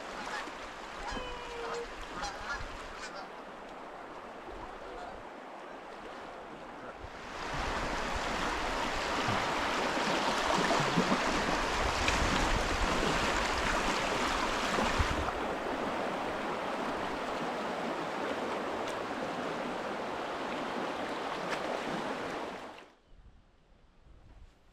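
River water rushing, a steady hiss that grows much louder about seven seconds in and cuts off abruptly near the end. A few short calls sound in the first few seconds.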